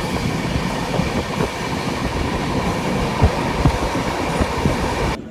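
Express passenger train running on the track: a steady rumble of wheels on rails with irregular knocks and clatter from the rail joints. The sound drops off abruptly near the end.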